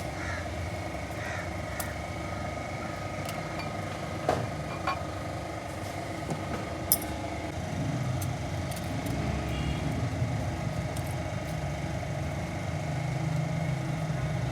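An engine running steadily, its low hum growing a little stronger about halfway through, with a few sharp metallic clicks in the middle.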